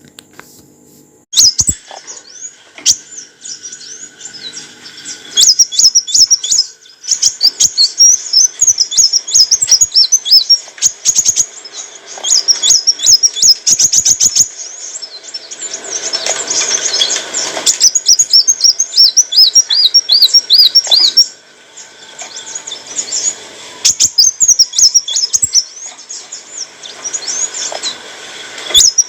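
Kolibri wulung sunbird singing: rapid, high, twittering chirps, sweeping notes and fast trills, strung together almost without a break. It starts about a second and a half in and has a short lull about two-thirds of the way through.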